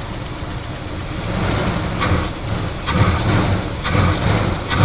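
1976 Chevy Blazer engine with a Holley 600 four-barrel carburettor running, its throttle blipped by hand about once a second from about two seconds in, each blip a short rush of intake noise over the engine's running note. It bogs down when the throttle is hit like that because it is not yet warm.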